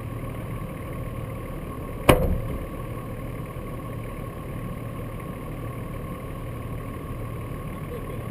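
Nissan Patrol's engine idling steadily while the vehicle stands still. About two seconds in there is one loud, sharp bang that rings briefly.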